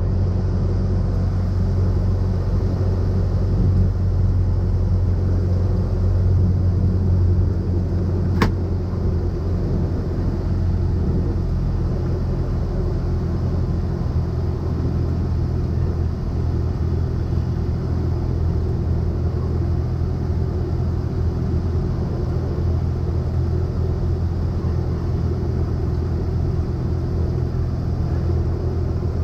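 Cessna 172SP's four-cylinder Lycoming engine and propeller running steadily as a low drone, with a single sharp click about eight seconds in.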